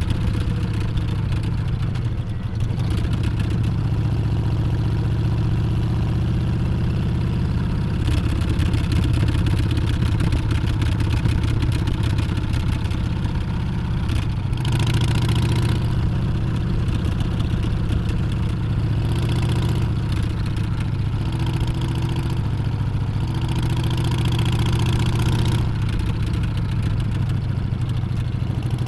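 Harley-Davidson Street Bob's Milwaukee-Eight 114 V-twin running at a steady pace, its low exhaust note holding even, with a few short stretches of added hiss.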